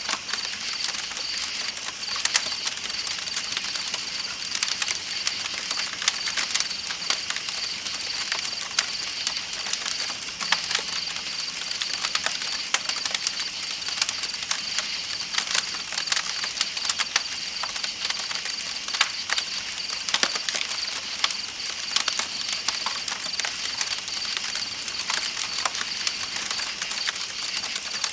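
Campfire crackling with frequent sharp irregular pops, over the steady hiss of a flowing river and a high, unbroken chorus of night insects.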